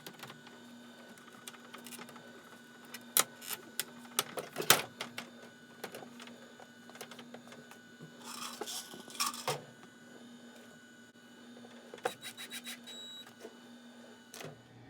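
Parts of a Frigidaire dehumidifier handled during reassembly: scattered clicks and knocks, with a stretch of scraping about eight seconds in. A faint steady hum runs underneath.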